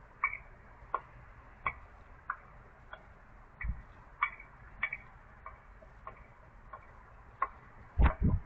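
European robin giving a regular series of sharp 'tic' calls, about three every two seconds. Two loud thumps follow near the end.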